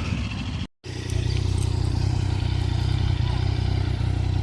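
Motorcycle running steadily while riding, a dense low rumble. The sound cuts out completely for a moment just under a second in, then resumes.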